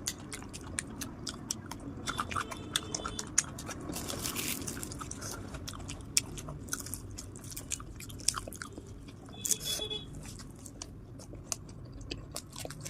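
Close-miked chewing of a mouthful of luchi with ghugni and minced mutton, with many small irregular mouth clicks.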